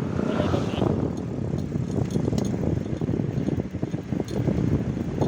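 Wind buffeting the microphone while riding, a steady low rumble mixed with road noise.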